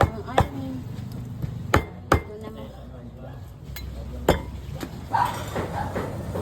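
A cleaver chopping beef on a chopping board: about five sharp knocks at uneven intervals, with voices in the last second or so.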